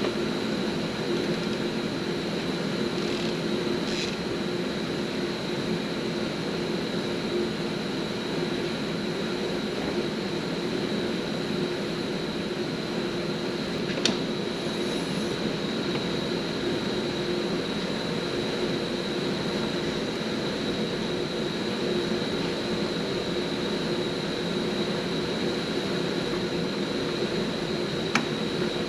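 Tractor engine running steadily at idle, with a few sharp metal clanks, one about four seconds in, one near the middle and one near the end.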